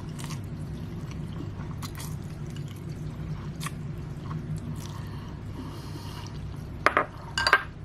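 Mouth sounds of eating instant spicy ramen noodles: wet chewing and small slurps, with two louder sharp sounds near the end, over a steady low hum.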